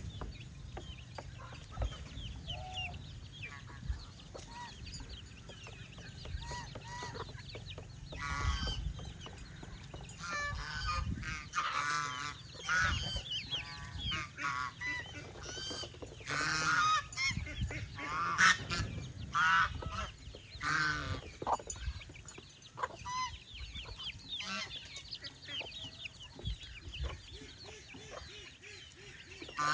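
Farmyard geese honking with chickens clucking: many irregular overlapping calls, busiest and loudest through the middle stretch.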